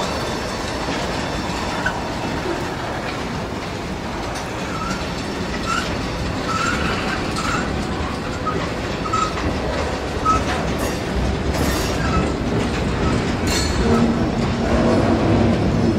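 Freight cars (tank cars and covered hoppers) rolling past: a steady rumble of steel wheels on rail with clicks over the joints. A run of short, high wheel squeaks comes through the middle, and the rumble grows a little louder near the end.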